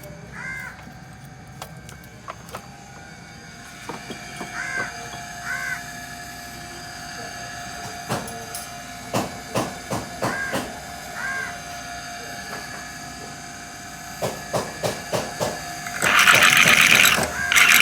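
Scattered clinks and knocks of hand tools on metal during engine work, with a few short bird calls in the background, then a loud hiss lasting about two seconds near the end.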